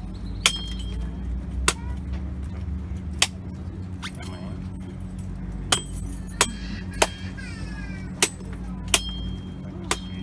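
A machete chopping open a green jelly coconut: about nine sharp, irregular strikes, some ringing briefly like metal, over a steady low hum.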